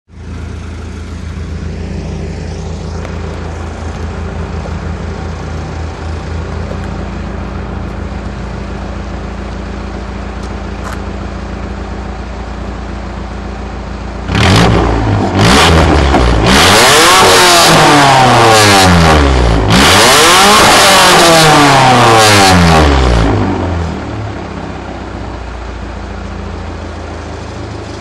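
1988 Mazda 323 hatchback's engine through a bosozoku exhaust, idling steadily. About halfway through it is blipped twice, then revved hard twice in longer pulls that rise and fall in pitch and are much louder than the idle. It settles back to idle near the end.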